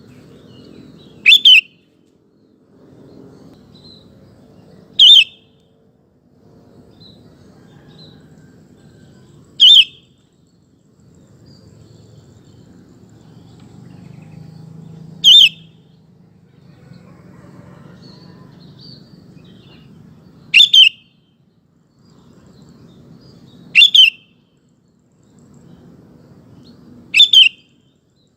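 Sooty-headed bulbul (kutilang) giving short, loud, wavering calls, seven in all, one every three to five seconds, several of them doubled. A low, faint background noise fills the gaps between calls.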